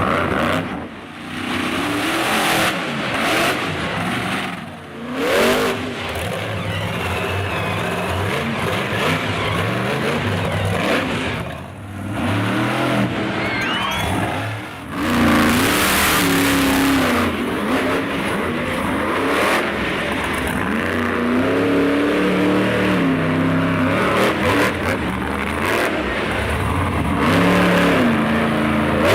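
Monster truck engines revving hard, the pitch repeatedly rising and falling as the throttle is worked, with a few brief dips in level.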